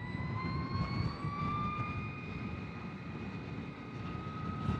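Energica Experia electric motorcycle's motor whining, rising in pitch as it speeds up during the first couple of seconds and then holding nearly steady, over a low rumble.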